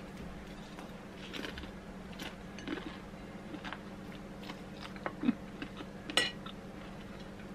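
A person chewing and crunching food close to the microphone: scattered small crisp clicks, with two sharper ones about five and six seconds in, over a faint steady hum.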